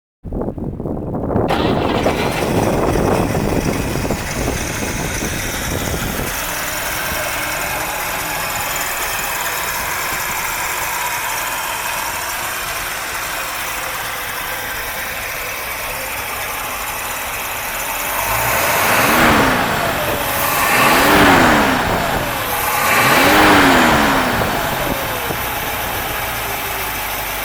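1957 Cadillac's 365 cubic-inch V-8 with an Edelbrock carburetor starting up and settling into a steady idle. Near the end it is revved three times, each rev rising and falling back to idle.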